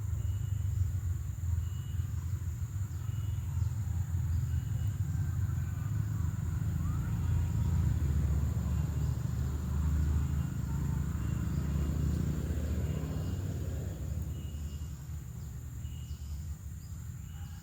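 Outdoor ambience: a steady low rumble that eases off near the end, with a continuous thin high-pitched whine and short chirps repeating about every second.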